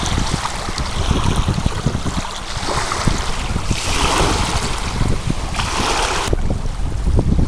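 Strong wind buffeting the microphone in gusts, over a rushing hiss of wind-driven choppy water. About six seconds in, the high hiss drops off abruptly while the low buffeting goes on.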